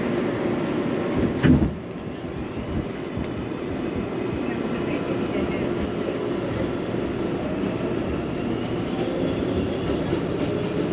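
New York City subway train running, heard from on board: a steady rumble of wheels on rails with a few held tones, and one sharp loud knock about a second and a half in.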